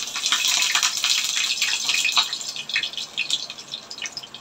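Breadcrumbed chicken breast sizzling in hot olive oil in a frying pan, starting the moment it goes in: a dense crackle that thins after about two and a half seconds into scattered pops.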